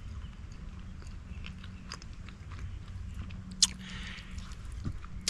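A person chewing a bite of burrito close to the microphone, with scattered small clicks and one sharper click about three and a half seconds in.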